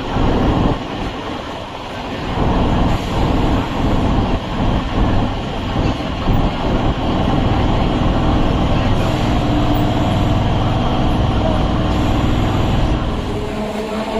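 Chennai MRTS suburban electric train running, a loud, rumbling rattle of wheels and coaches on the track, with a steady whine joining in the second half.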